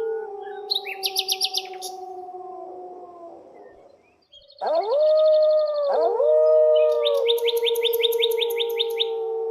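Wolves howling: a long, slowly falling howl fades out, then two new howls rise steeply a little after the middle and are held steady to the end. Quick trains of bird chirps sound over them twice, once early and again near the end.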